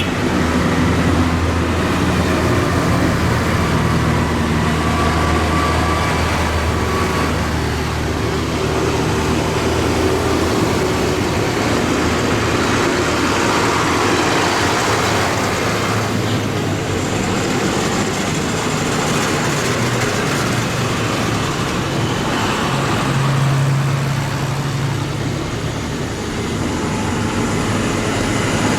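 Tractor engines running as a line of tractors drives past one after another, with a steady hum of engines and road noise. One engine's low hum is strongest in the first ten seconds, and another one passes near the end.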